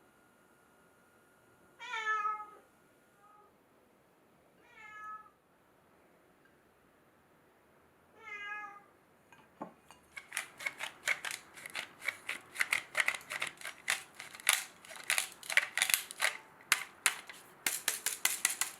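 A domestic cat meowing three times, short calls a few seconds apart. From about halfway through comes a fast, irregular run of crisp clicks, several a second, louder than the meows.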